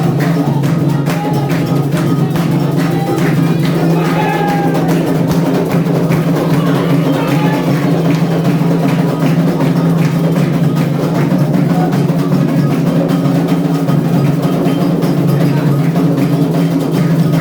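Candomblé ceremonial drumming: atabaque hand drums and a bell or wood-block-like percussion playing a continuous rum rhythm for Xangô/Ayrá, with voices singing over the first few seconds.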